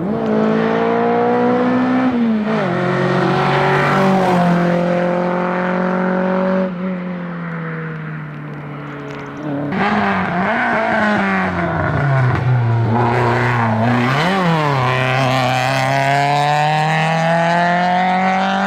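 Two hillclimb cars at racing pace, one after the other. First a Renault Clio 16S's four-cylinder engine revving hard, its pitch rising and then dropping at an upshift about two seconds in. After about nine seconds comes a Citroën Saxo VTS's four-cylinder engine, its pitch dropping and rising through gear changes and then climbing steadily under full acceleration.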